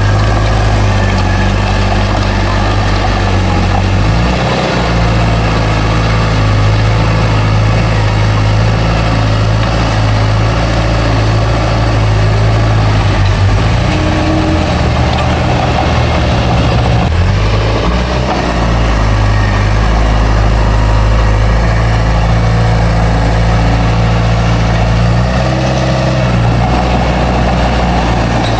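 Bulldozer's heavy diesel engine running continuously, its pitch stepping up and down several times as the load and throttle change.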